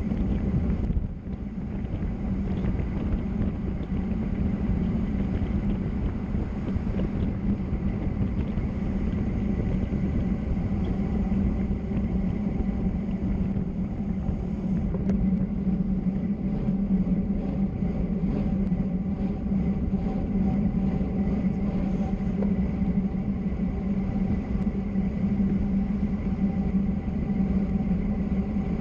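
Steady rumble of travel at speed down a mountain road: road and rushing-air noise with a constant low drone.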